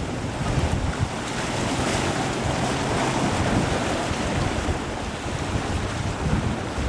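Wind blowing across the microphone over the wash of water along a sailboat's hull: a steady rushing noise with uneven low rumbles from the wind hitting the mic.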